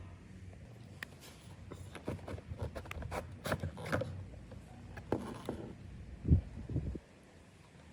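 Irregular clicks, scrapes and rubs of hands and tools working on a robot vacuum's plastic parts, busiest in the middle, with two dull low thumps near the end.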